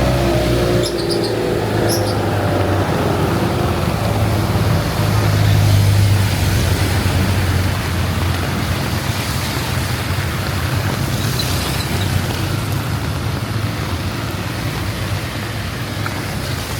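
Traffic on a wet road in heavy rain: one vehicle's engine fades away in the first second, then another engine's low hum swells and is loudest around five to six seconds in, over a steady hiss of rain and tyres on wet pavement.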